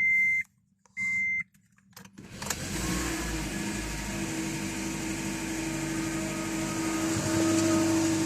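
Two short beeps, then about two and a half seconds in the 2010 Honda Insight's 1.3-litre four-cylinder engine starts from cold and settles into a steady fast idle, getting a little louder near the end.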